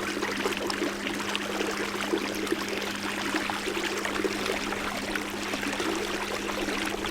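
Water rushing and splashing along a canoe's hull as it moves under power, with the steady low hum of its electric motor running throughout.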